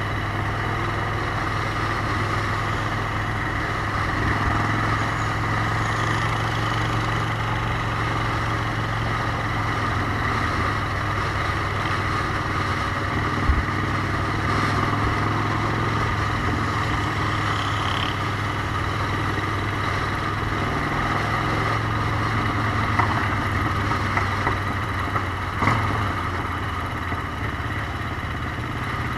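Motorcycle engine running steadily at cruising speed, with a constant low hum under an even rushing noise. A few brief sharp knocks can be heard about halfway through and again near the end.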